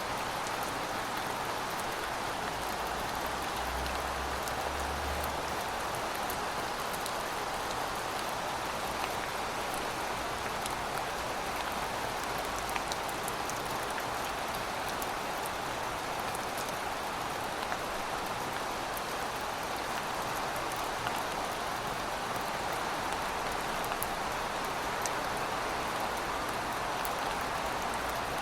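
Steady rainfall: an even hiss of rain on surfaces with scattered small drop ticks. A faint low rumble briefly joins in about four seconds in.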